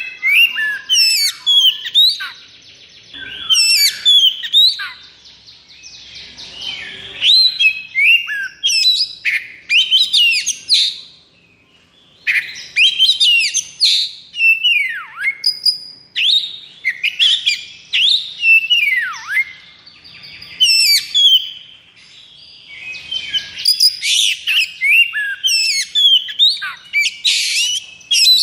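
Oriental magpie-robin (kacer) singing a fast, varied 'konslet' song: rapid whistles, rattling trills and chattering notes, with a few sharp downward-sliding whistles. It sings in long runs broken by brief pauses.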